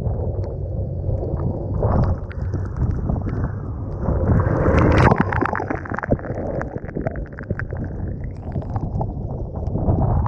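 Typhoon-force wind buffeting the microphone over rough sea, with waves washing and splashing against the shore. The noise swells loudest about four to five seconds in, full of crackling spray.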